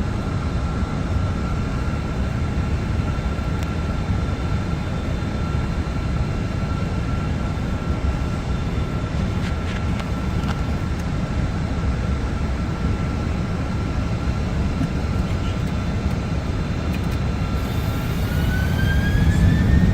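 Boeing 747 jet engines running with a steady deep rumble and a high whine. Near the end the whine rises in pitch and the sound gets louder as the engines spool up.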